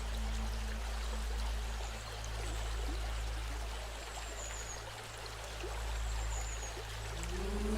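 River water flowing in a steady rush, over a low steady drone. Near the end a pitched tone slides up and holds.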